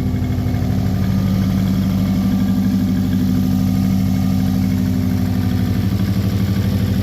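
Subaru 2-litre WRX flat-four engine idling steadily on its first start after the swap, with an even, rapid pulsing exhaust note.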